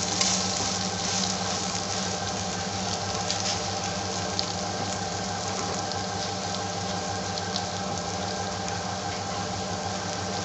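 Omelette frying in hot oil in a frying pan: a steady sizzle with small scattered crackles, over a low steady hum.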